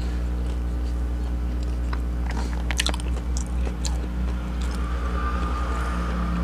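A person chewing a mouthful of burger and crunchy chips close to a clip-on microphone, with a cluster of crisp crunches about two to three seconds in and softer wet chewing around it. A steady low electrical hum runs underneath.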